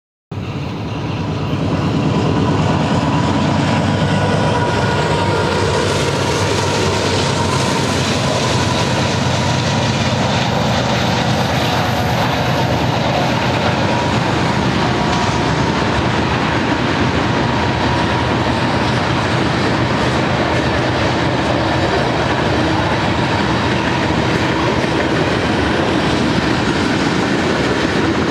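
Long mixed freight train rolling past at close range: a steady heavy rumble of tank cars, hoppers and boxcars, wheels clicking over the rail, with a faint steady high whine. The sound fades in over the first two seconds.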